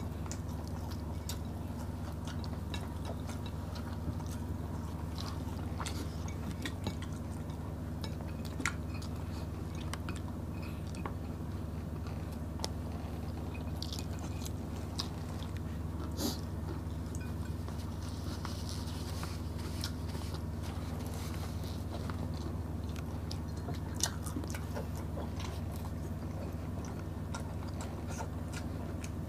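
Close-up eating sounds: chewing and biting into smoked milkfish and mackerel, rice and vegetables, with scattered sharp clicks and crunches over a steady low hum.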